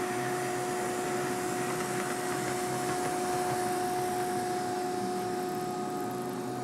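Model train locomotives running on the layout: a steady electric motor whine with two held tones over an even rolling hiss.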